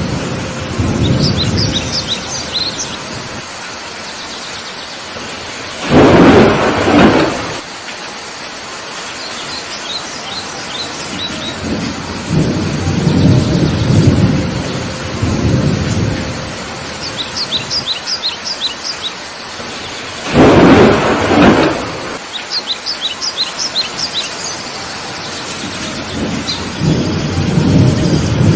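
Heavy rain falling steadily, with thunder rumbling low several times and two loud, sharp thunder claps, about six seconds in and again about twenty seconds in. A bird chirps in short quick series a few times above the rain.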